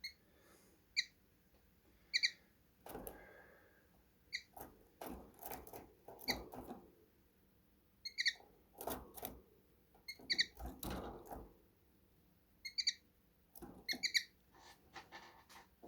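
Finches giving short, high chirping calls, singly and in quick pairs, about a dozen in all, with soft bouts of rustling and scuffling between them.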